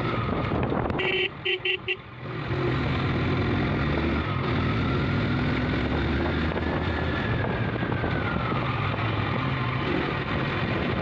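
Motorcycle engine running steadily on the road, with road noise, while riding. About a second in, a horn gives four quick short toots.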